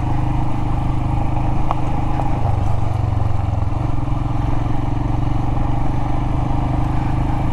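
Royal Enfield Himalayan's single-cylinder engine running steadily while the motorcycle is ridden, over a constant haze of riding noise. The engine note shifts slightly about two and a half seconds in.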